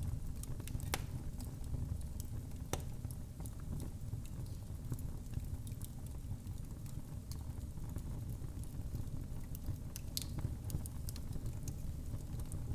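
Wood fire in a fireplace crackling: scattered sharp pops and snaps, the strongest about a second in, near three seconds and near ten seconds, over a steady low rumble of the flames.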